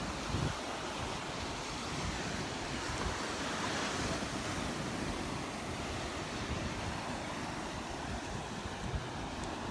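Gulf surf washing onto the beach, a steady rush that swells about four seconds in, with wind buffeting the microphone.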